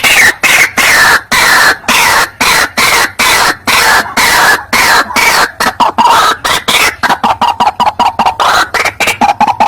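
White-breasted waterhen (ruak-ruak) giving its loud, harsh, repeated croaking calls, about two a second and quickening near the end, with the notes sliding lower and then rising again. It is a lure call recording of the species.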